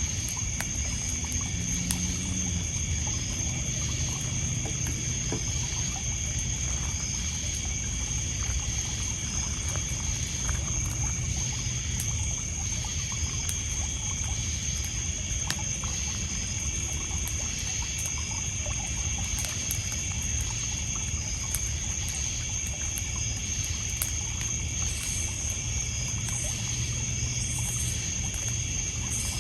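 Night ambience: insects trilling steadily and high, with a chirp repeating about once a second. Water lapping on a pebble shore gives a steady low wash, and the campfire crackles now and then.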